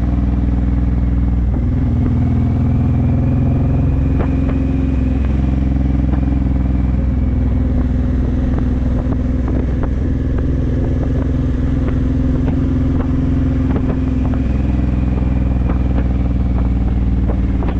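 Honda VTX1800's 1800cc V-twin with Vance & Hines aftermarket pipes running steadily under way on the road. Its note shifts slightly a few times.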